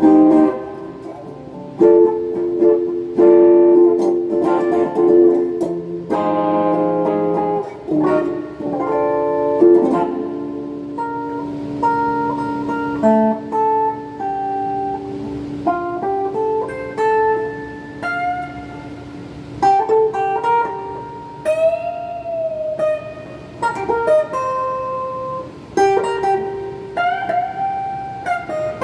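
Donner '72 Thin semi-hollow electric guitar played through a phaser and a Klon-style overdrive into a small Peavey Backstage Plus amp. It rings out chords for about the first ten seconds, then plays single-note lead lines with string bends and vibrato.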